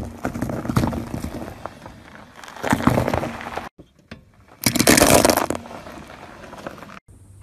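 Car tyre rolling onto and crushing brittle objects: crackling and cracking with a loud crunch near three seconds in. After a sudden cut, a pile of large seashells shatters under the tyre about five seconds in, the loudest burst of crunching.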